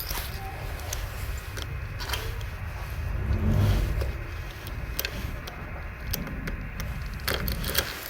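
2002 Ducati M900ie motorcycle engine turning over: a steady low mechanical rumble with scattered sharp clicks, swelling louder for a moment about three and a half seconds in.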